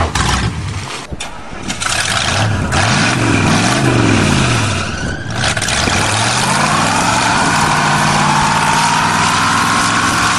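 1985 Oldsmobile Delta 88's 307 V8 revving up and down twice, then climbing to a high, held rev as the rear tyres spin in a burnout, with a tyre squeal rising in pitch over the engine.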